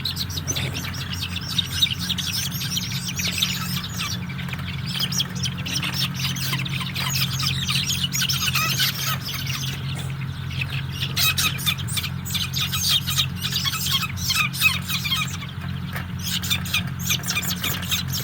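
A flock of four-week-old broiler chickens peeping without pause, many quick high cheeps overlapping, over a steady low hum.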